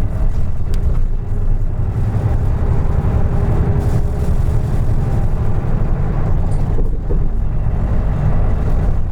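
Interior running sound of a 2003 Isuzu Erga Mio (KK-LR233J1) city bus: a steady low engine and road rumble with a faint whine above it.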